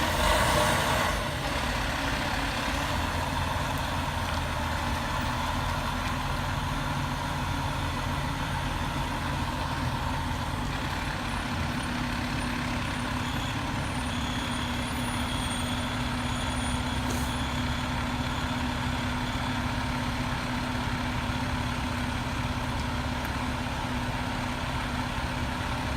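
Diesel engine of a Pierce Arrow XT aerial ladder fire truck running steadily, with a brief hiss right at the start.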